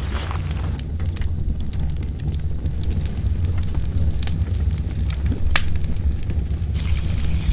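Campfire crackling, with occasional sharp pops, over a steady low rumble of wind on the microphone.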